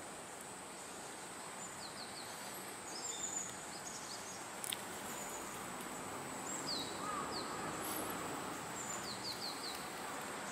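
Outdoor ambience: a steady background hiss with small birds giving short, quick, falling chirps on and off, including a run of three or four near the end, and a faint steady high tone. A single sharp click comes a little before the middle.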